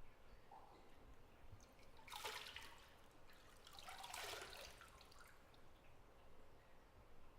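Faint bathwater in a tub splashing twice, a short slosh about two seconds in and a longer one about four seconds in, against quiet bathroom room tone.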